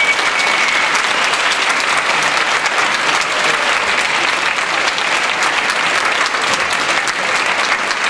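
Audience applauding steadily with many hands clapping, and a single held whistle during the first second.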